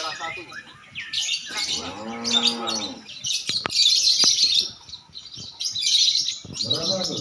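Lovebirds chattering in dense, high-pitched bursts. A drawn-out low call that rises and falls cuts in about two seconds in and again near the end, and there are two sharp clicks a little after halfway.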